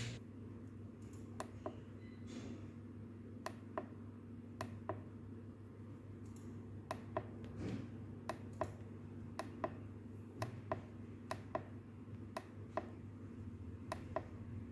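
Small sharp clicks, about a dozen, many in quick pairs a few tenths of a second apart, over a steady low electrical hum.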